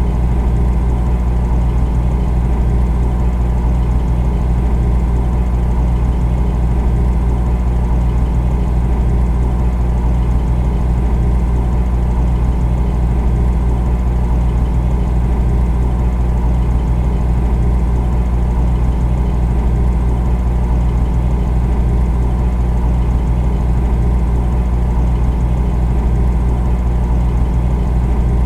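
Refrigerator running: a steady low compressor hum with a faint hiss above it, unchanging throughout.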